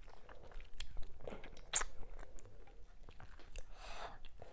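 Close-miked chewing of a soft mouthful of fufu and ogbono soup: wet smacks and sharp little mouth clicks at irregular intervals, with a brief soft rush of noise near the end.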